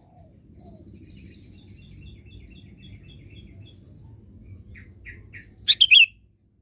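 Sooty-headed bulbul (kutilang) singing: a soft run of quick chirps, three short notes, then a loud burst of bubbly notes near the end, over a low rumble.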